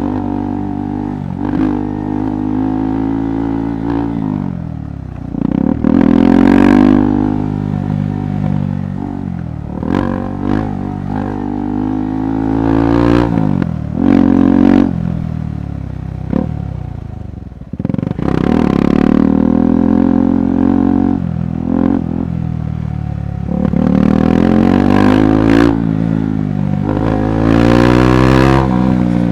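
KTM 390 Adventure's single-cylinder engine riding off-road, the revs climbing and dropping again and again as the throttle is opened and closed, with short knocks and clatter from the bike over the rough trail.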